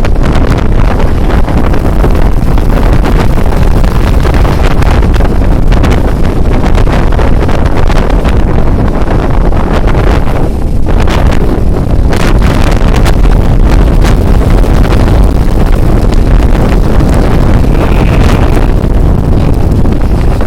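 Strong storm wind buffeting the microphone: a loud, steady rumble of wind noise with rushing gusts.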